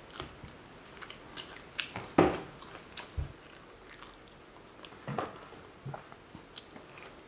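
Someone biting into and chewing a freshly pan-fried scallion pancake: irregular soft crunches, the loudest about two seconds in.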